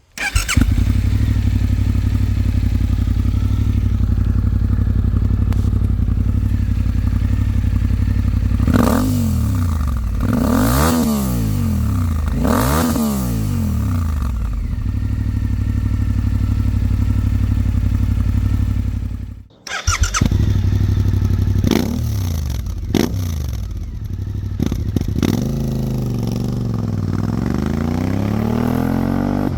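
Suzuki V-Strom 800 DE's 776 cc parallel-twin engine, breathing through an Arrow Indy race slip-on exhaust. It idles steadily, with three quick throttle blips about nine to thirteen seconds in and a few more after the middle, and a longer rise and fall in revs near the end.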